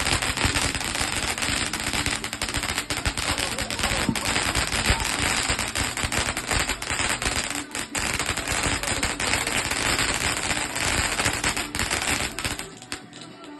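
Fireworks crackling in a rapid, continuous barrage of small bangs, like a machine-gun rattle, which stops about twelve and a half seconds in.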